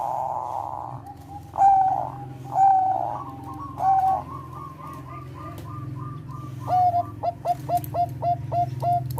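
Zebra dove (perkutut) cooing: a few drawn-out coos, then a quick run of short notes, then a string of clipped coos about three a second near the end. A steady low hum runs underneath.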